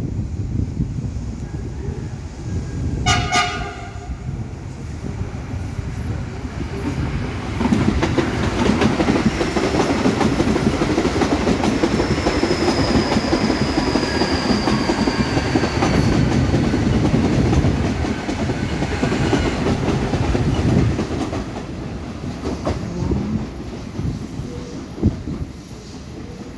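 A train horn gives one short blast about three seconds in. A train then passes with a steady rumble and rail noise for more than ten seconds, and a faint falling squeal in the middle, before fading.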